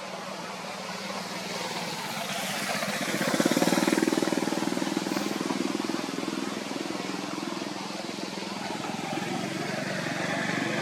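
A motor vehicle's engine running, swelling to its loudest about four seconds in and then holding steady.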